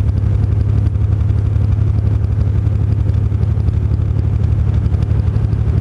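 Truck engine running steadily: a deep, even drone with a fine rapid pulse.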